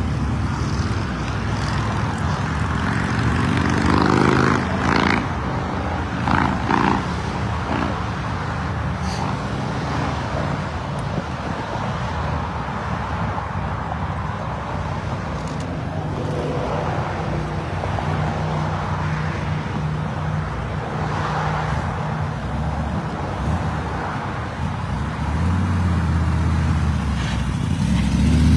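Classic Plymouth Barracuda's engine idling with a steady low rumble, then revving up near the end as the car pulls away.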